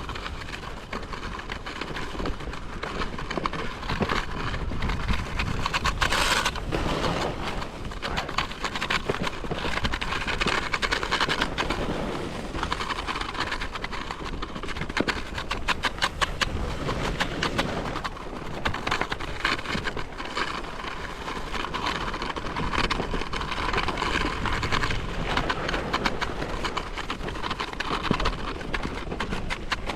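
Sit ski running downhill on packed snow: a steady rush of the ski scraping over the snow, with rapid chattering at times as the edge grips and skids through turns.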